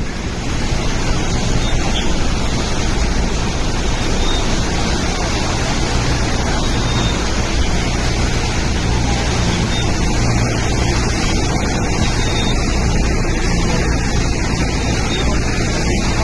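Heavy cyclonic rain pouring steadily: a loud, continuous hiss with a low rumble underneath.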